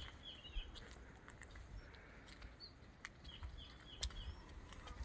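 Faint bird calls: a quick run of about four short, high, falling notes, given at the start and again about three and a half seconds in, over soft low thumps and light clicks.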